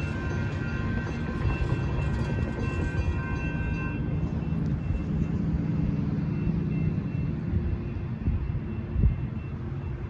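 Altamont Corridor Express passenger train rumbling past a grade crossing, with a steady engine hum from its Siemens SC-44 Charger locomotive. The crossing signal bells ring over it and stop about four seconds in.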